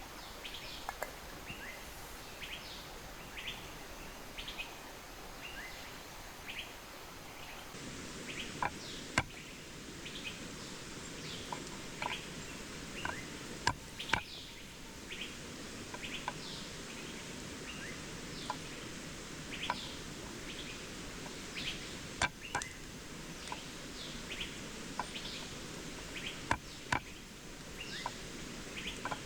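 Many birds chirping in short, high calls over a steady rush of falling water. A few sharp clicks stand out, and about eight seconds in the rushing sound turns fuller and lower.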